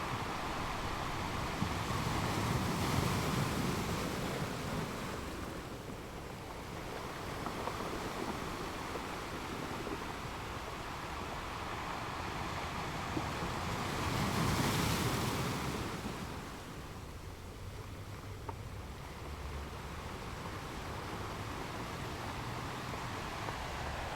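Waves washing in, a steady rush that swells twice, about twelve seconds apart.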